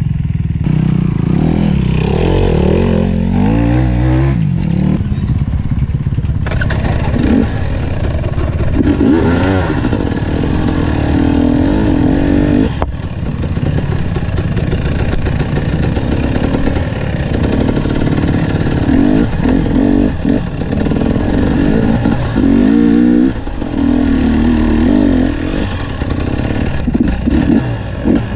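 Enduro motorcycle engine running close up as the bike is ridden slowly over a slippery forest trail, revving up and dropping back again and again. A few short knocks and clatters are heard along the way.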